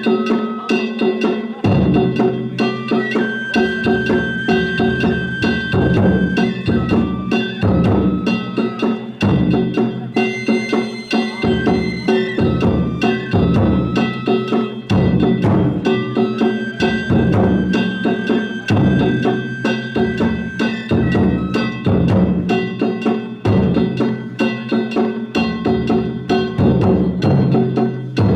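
Danjiri float narimono music: taiko drums and small kane hand gongs beat a fast, driving rhythm, with a flute holding long melody notes above.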